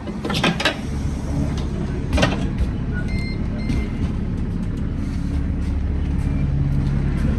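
Interior of an Alexander Dennis Enviro400 double-decker bus: the diesel engine drones steadily under a few sharp rattling knocks near the start and about two seconds in, with two short high beeps about three seconds in. The engine note grows stronger toward the end.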